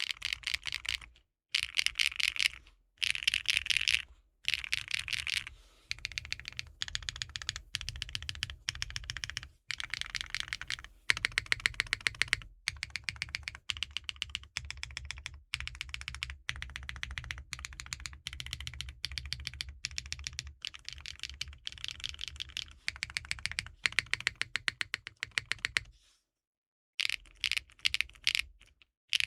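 Typing on a KNC Keys Geim 65 custom 65% mechanical keyboard fitted with KeyGeek M3 linear switches and GMK Black Snail keycaps. Fast runs of key clacks, broken by short gaps and a pause of about a second near the end.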